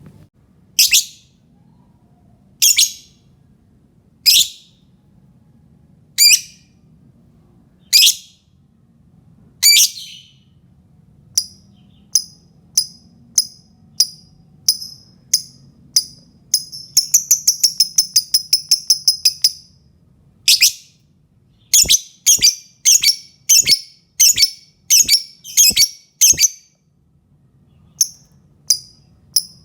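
Lovebird calling: loud, shrill single calls about every two seconds, then quicker short chirps. About 17 s in it breaks into a rapid trill of nearly three seconds, the drawn-out 'ngekek', followed by a fast run of sharp calls. This is a lure call used to make other lovebirds answer.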